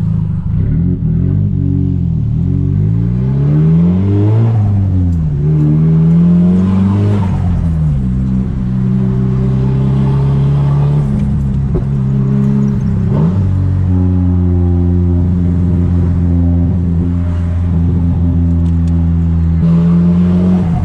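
Straight-piped Nissan Silvia S15's SR20DET turbo four-cylinder under way. Its note climbs and falls through gear changes over the first several seconds, then holds a steady drone while cruising, with one brief dip just past halfway.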